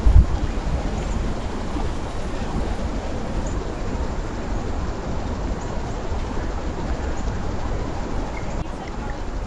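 A steady low rumble, with a thump just after the start, and a few faint, short high bird chirps here and there.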